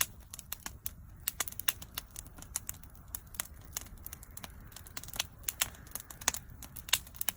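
Wood bonfire crackling: irregular sharp snaps and pops, sometimes several close together, over a low steady rush of the burning fire.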